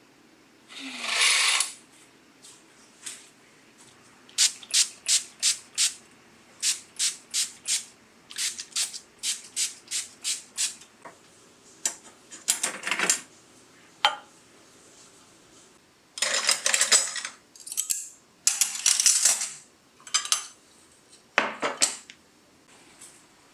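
Kitchenware being handled: runs of quick, evenly spaced strokes of a utensil against a dish or board, about two to three a second, between longer scraping and clattering noises.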